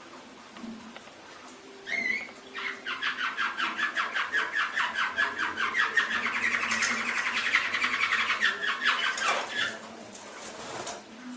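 Domestic canary singing: a short note about two seconds in, then a long, rapid trill of quickly repeated notes that runs for about six seconds and stops.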